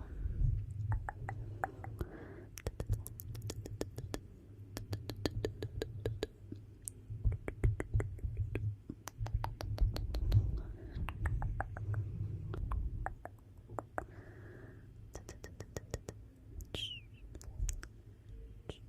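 Wood fire in a fireplace crackling: dense, irregular pops and snaps over a low steady rumble, with a few soft hisses.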